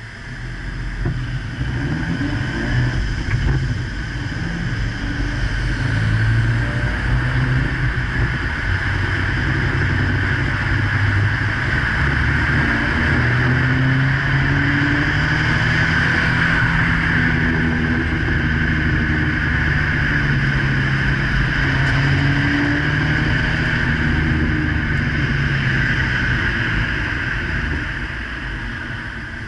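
Cars driving at speed, heard through a camera mounted on the outside of one of them: heavy wind and road noise, with engine notes that rise and fall as the cars speed up and ease off. The sound builds over the first few seconds and eases slightly near the end.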